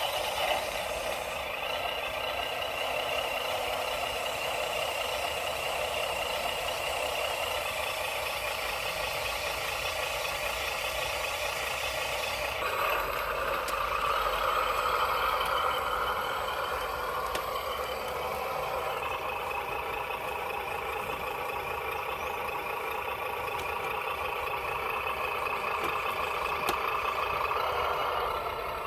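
Sound module of a 1/14 scale RC truck playing a heavy truck's diesel engine through a small speaker, running steadily with little bass, its note changing about twelve seconds in.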